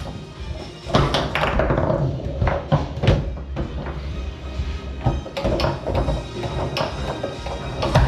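Foosball table in play: the ball struck by the foosmen and the rods slammed against the bumpers, a run of sharp clacks and knocks at irregular intervals.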